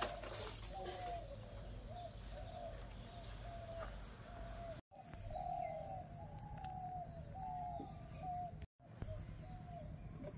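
A bird calling a run of short repeated notes, about two a second, over a steady high insect drone. The sound cuts out completely for a moment twice.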